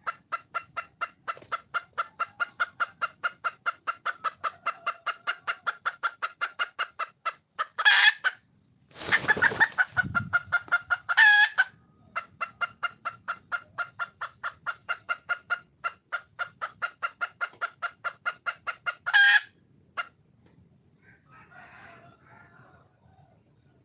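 Wild junglefowl hen calling: long runs of fast, even clucks, about five a second, broken three times by a loud, short, sharp call. A noisy burst comes about nine seconds in. The clucking stops about twenty seconds in.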